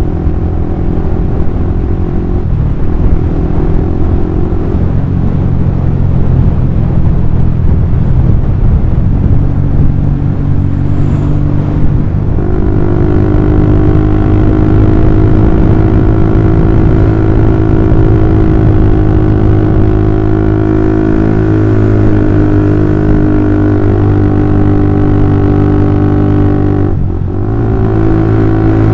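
Honda CB150R single-cylinder engine running through a DOS Muffler full-system exhaust with a long silencer, held at low to mid revs. The note shifts a few times, climbs and holds steady about twelve seconds in, and drops briefly near the end.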